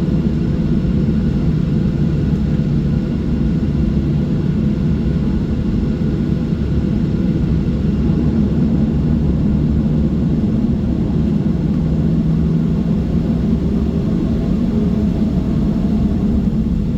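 Steady low cabin roar of a Boeing 737-700 climbing after takeoff, from its CFM56-7B turbofans at climb power and air rushing past the fuselage, heard from inside the cabin.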